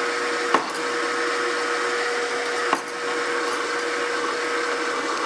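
A machine running steadily with a constant whine, with two sharp clicks, about half a second in and near the three-second mark.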